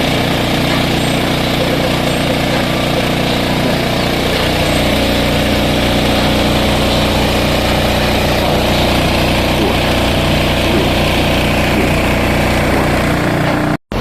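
A loud, steady low drone with several held tones, like a running engine, shifting slightly about four and a half seconds in and cutting off abruptly just before the end.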